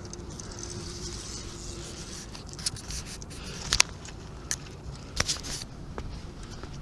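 Steady rush of river water with a few scattered sharp clicks and light scrapes, several of them in the middle.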